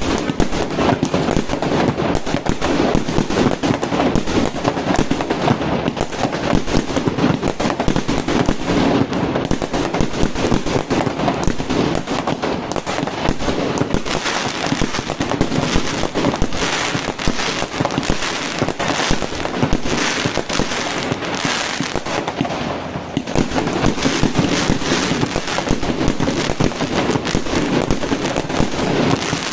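Fireworks going off in a continuous rapid barrage: dense, overlapping crackling bangs with no let-up.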